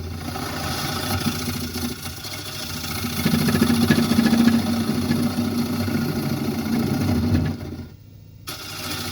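Wood lathe running with a carbide tool cutting into a spinning yellow cedar and walnut bowl blank. The cutting gets louder about three seconds in, then drops off sharply near the end.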